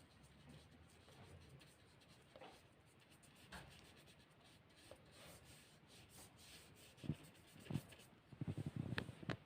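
Faint paintbrush strokes scratching on paper, with a couple of sharper taps and a quick flurry of short strokes near the end.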